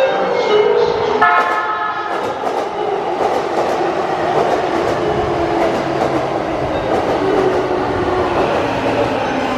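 Chuo Rapid Line E233-series electric train sounding its horn for about two seconds near the start, then running along the platform with heavy rail noise and the clatter of wheels over rail joints.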